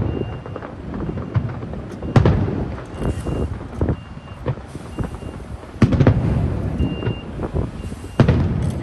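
Fireworks going off: three loud booms, about 2, 6 and 8 seconds in, with smaller pops and crackling between them.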